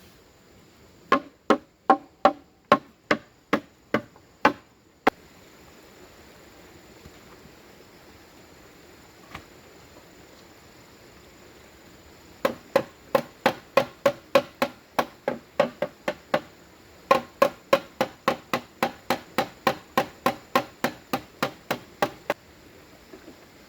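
Bamboo being struck with a hand tool in rapid, even blows, about two to three a second, in three runs, with a pause of several seconds after the first.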